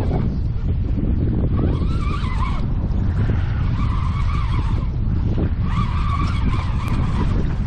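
Heavy wind rumble on the microphone, with a squeal that comes and goes about every two seconds, each lasting about a second.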